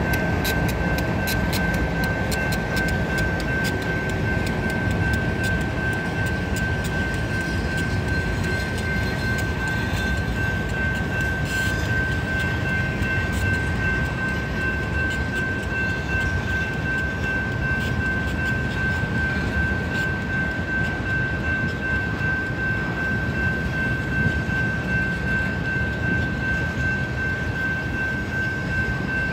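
Freight cars rolling steadily through a road grade crossing, the wheels rumbling on the rails with rapid clicking over the first dozen seconds. A steady high-pitched tone sounds over it throughout.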